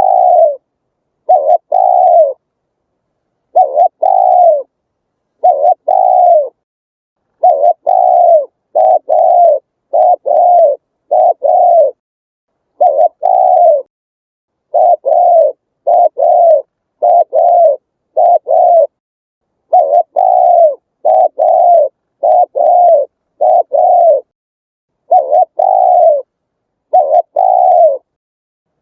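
Spotted dove cooing over and over: short, low, rounded coo notes in twos and threes, each note rising slightly and then falling, with dead silence between the phrases.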